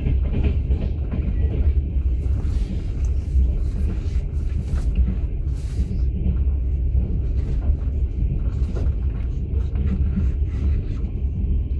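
Steady low rumble of a moving passenger train heard from inside an open-plan sleeper carriage, with a few scattered light knocks over it.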